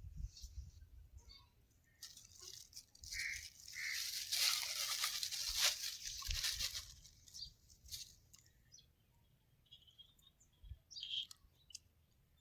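Birds chirping now and then, with a rustling, crackly hiss that swells up about two seconds in and dies away a few seconds later.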